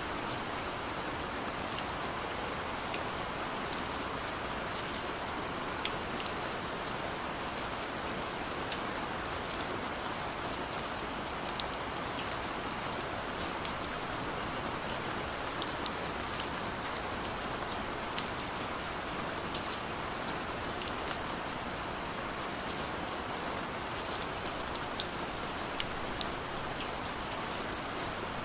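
Steady rain falling, an even hiss with many scattered sharp drop ticks, a few of them louder.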